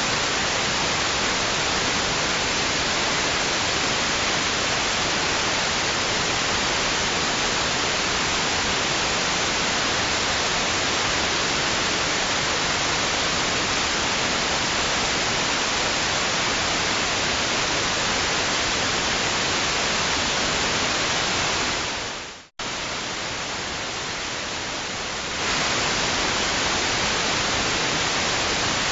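Steady, even hiss of white noise. About 22 seconds in it fades to a split-second silence, comes back slightly quieter for about three seconds, then returns to full level.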